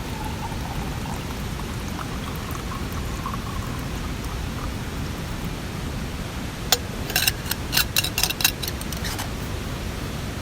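Steady rushing of water, as from rain and a mountain stream, with a quick run of about ten sharp clicks over two seconds from about seven seconds in.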